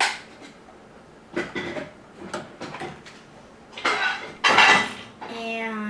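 Plastic Lego pieces of a toy truck clicking and clattering as they are handled, with a louder rattle about four seconds in.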